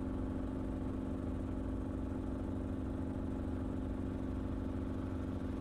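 Enstrom helicopter in flight: a steady drone of engine and rotor heard from the cabin, with an even low hum and one strong steady tone that does not change.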